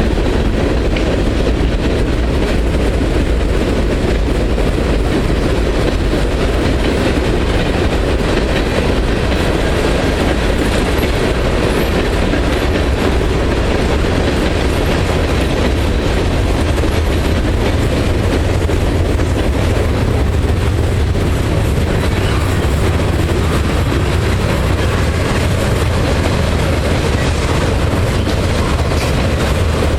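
Norfolk Southern freight train rolling past at close range: a steady, loud rumble of wheels on rail with the clickety-clack of the cars over the rail joints.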